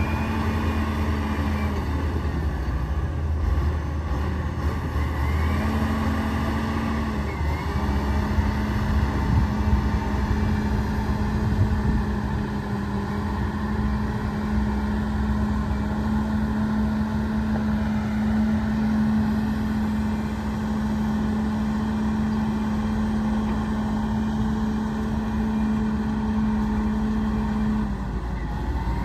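Heavy diesel earthmoving machinery running steadily under load: a continuous low engine rumble with a constant hum that drops out briefly a few seconds in and again near the end.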